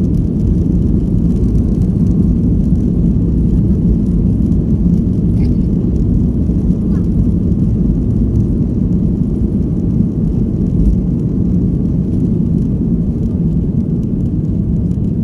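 Steady low rumble of a passenger aircraft's engines and airflow heard inside the cabin around takeoff.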